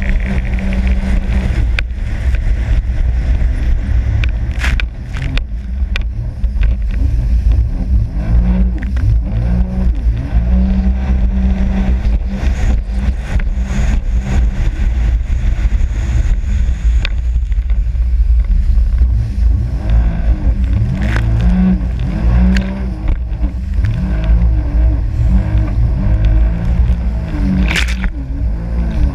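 Sea-Doo RXP-X 260 jet ski's supercharged Rotax four-stroke engine running under way, its note rising and falling with the throttle over a heavy low rumble. Repeated sharp slaps cut through it, typical of the hull hitting the waves.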